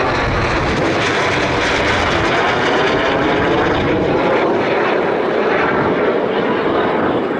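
A T-38 Talon's twin J85 turbojets passing overhead in a flyby: a loud, steady jet roar, with a sweeping, phasing tone in the noise as the jet goes over.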